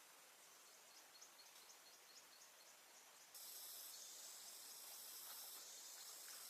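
Quiet outdoor ambience with faint short bird chirps; about halfway in, a steady high-pitched insect buzz starts suddenly and holds.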